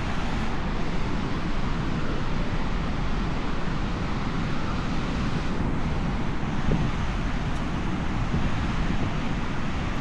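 Steady wind noise buffeting the microphone, a low rumbling rush with no breaks.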